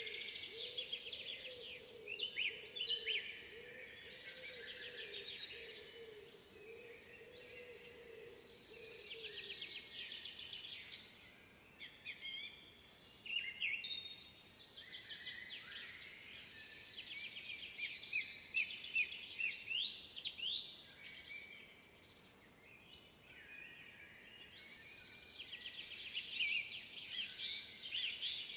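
Several songbirds singing in a spring woodland, overlapping phrases of rapid trills and chirps. A faint low wavering hum sits underneath and fades out about a third of the way in.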